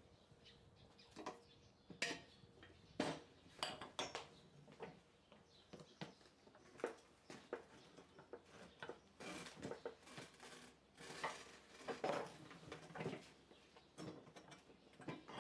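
Irregular metallic clinks and knocks from tire-changing work with a manual tire changer and its tools, at an uneven pace.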